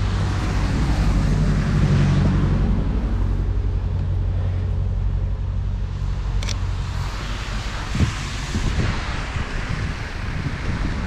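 Wind noise on the microphone over a steady low hum that fades out about two-thirds of the way in, with a sharp click and then a single knock soon after.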